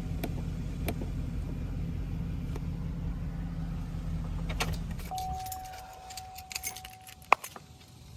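Truck engine idling steadily, then shut off about five seconds in. A steady beep follows for about two seconds, with a run of light clicks and rattles and one sharp click near the end.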